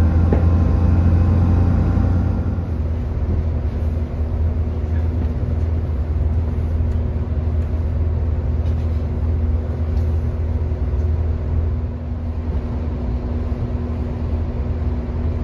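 Inside a diesel passenger train on the move: a steady low rumble from the engine and the wheels on the track, with a steady hum coming in about three seconds in.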